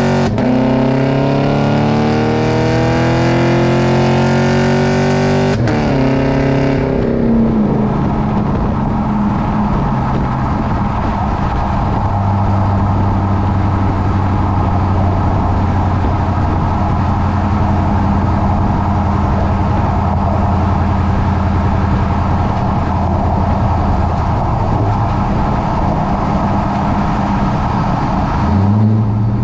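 2018 Chevrolet Silverado's equal-length exhaust pulling hard under acceleration, its pitch rising through the first several seconds with a brief break about five and a half seconds in, like a gear change. It then settles into a steady low drone at cruise, and starts climbing again right at the end.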